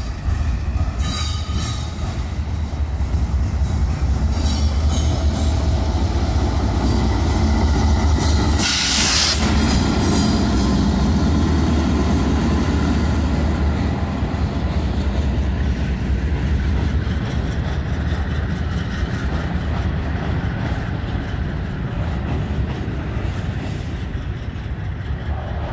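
Norfolk Southern freight train rolling past close by. For the first half the diesel locomotive's engine drones low and steady, then it eases as the hopper cars run by with wheels rumbling and clicking over the rails. A brief hiss lasting about a second comes about nine seconds in.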